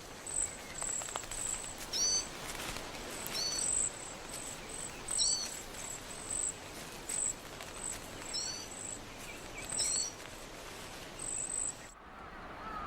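A flock of cedar waxwings calling: a stream of very high, thin, short whistled notes repeating every second or so, with some lower paired chirps, over a steady background hiss. The calls stop abruptly about 12 seconds in.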